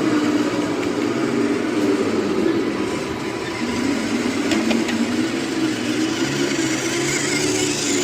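Radio-controlled model truck running: a steady mechanical drone whose pitch wavers slightly, with a couple of faint clicks about halfway through.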